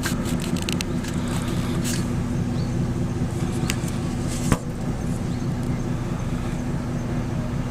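Sightseeing boat's engine running with a steady low drone, with a few light clicks early on and one sharp click about four and a half seconds in.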